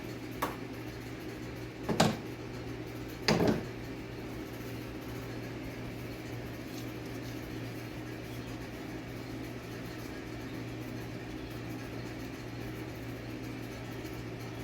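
Steady low hum, with three short knocks in the first few seconds, the loudest about two seconds in.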